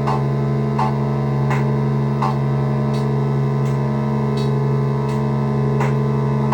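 Modular synthesizer holding a steady low drone of several sustained tones, with short bright blips repeating about every three-quarters of a second.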